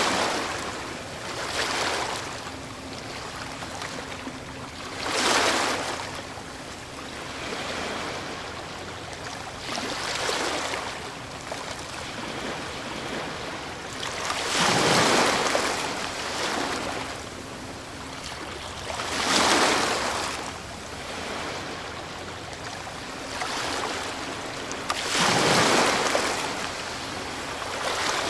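Ocean waves breaking on a shore: a constant wash of surf that swells into a louder rushing crash every few seconds, about six times.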